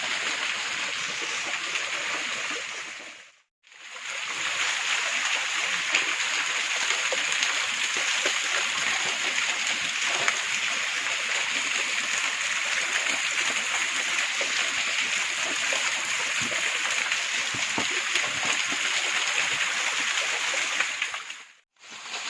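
Small waterfall splashing steadily, an even rushing hiss of falling water. It drops out briefly about three seconds in and again near the end.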